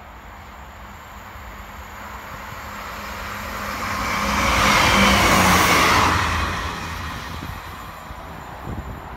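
ScotRail Class 158 diesel multiple unit passing on the line: wheel and engine noise build up, peak as it goes by about five seconds in, then fade as it draws away.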